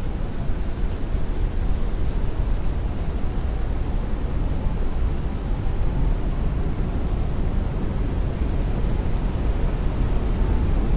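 Heavy rain and strong wind heard against a window, a steady deep rushing wash with no thunder.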